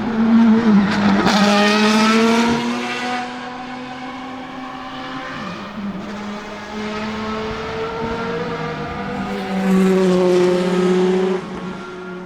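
Maserati MC12 GT1's naturally aspirated V12 race engine at speed. It is loudest for the first three seconds, with its pitch dropping about a second in, then runs quieter and steady. It swells again near the end and cuts off abruptly.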